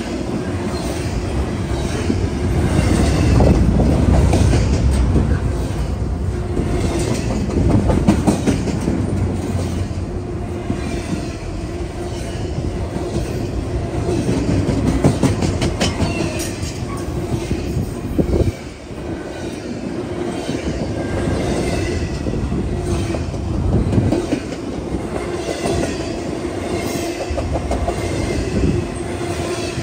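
Double-stack container train passing close by: steel wheels rumbling and clacking rhythmically over the rail joints, with a steady ringing tone underneath.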